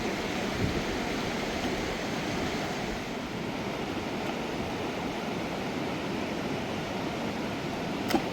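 Mountain river rushing steadily, with one short click near the end.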